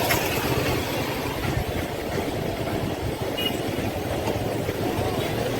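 Motorcycle running at road speed: a steady engine and road rumble with wind noise.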